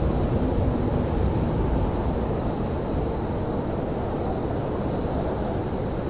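Railyard ambience: a steady low rumble with a thin, steady high whine over it, and a short rapid run of high-pitched chirps about four seconds in.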